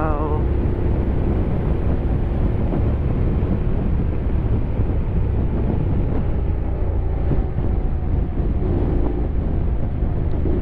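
Honda X-ADV 750's parallel-twin engine running steadily while riding, with wind rushing over the microphone.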